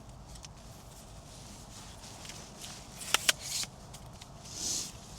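Quiet outdoor background with two sharp clicks in quick succession about three seconds in, then a short rustle near the end.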